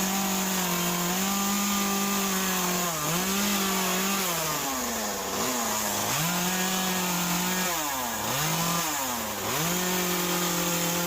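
Chainsaw running at high revs while carving a wet western red cedar stump, its engine note dropping and recovering about five times as the throttle and cutting load change.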